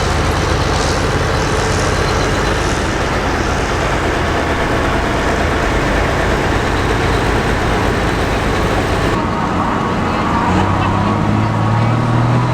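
Hot farm pulling tractor's diesel engine running flat out under load, a dense, loud noise. After a sudden change about nine seconds in, an engine revs up with a steadily rising pitch.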